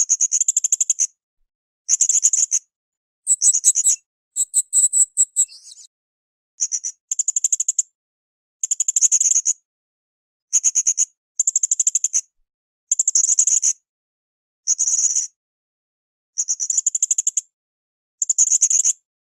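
Blue-crowned hanging parrot (srindit) calling in full song: a string of short, high-pitched, rapidly pulsed trills, roughly one burst every second with brief gaps between. Around four to five seconds in, the calls turn higher and more chattering before the regular trills resume.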